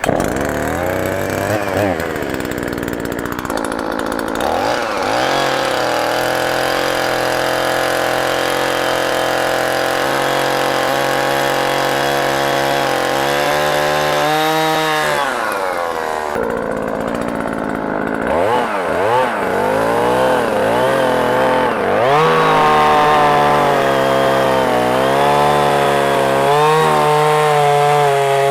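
Petrol chainsaw running at high revs. Its engine pitch sags and recovers again and again as the chain bites into the apple branch's wood, with a brief drop in speed about halfway through.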